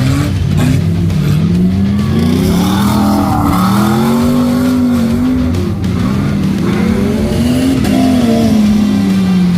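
Mud bog truck's engine revving hard, its pitch rising and falling again and again as the throttle is worked.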